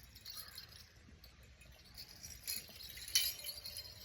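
Light metallic jingling and clinking, with one sharper click about three seconds in.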